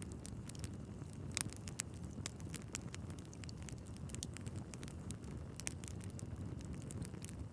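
Wood fire burning in a fireplace: a steady low rush of flames with frequent sharp crackles and pops from the logs, two louder pops about a second and a half in and again near the end.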